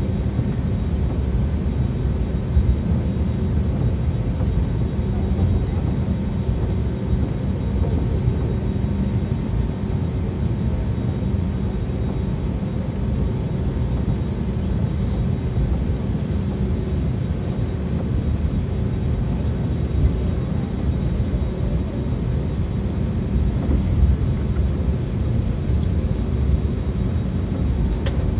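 Steady low rumble inside the cabin of an Airbus A320neo on the ground before take-off, with its engines running at low power and a faint steady hum over it.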